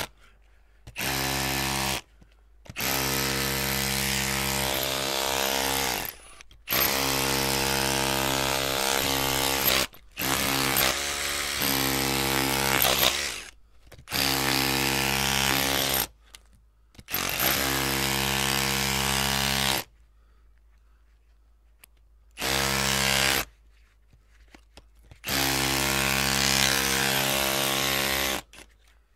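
Electric drill running in repeated bursts, switched on and off about eight times, each run a steady whine lasting one to four seconds with short quiet gaps between.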